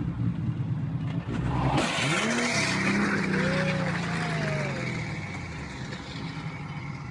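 Car engine running, then about two seconds in a sudden loud burst of noise with tyres squealing, fading away over the following seconds.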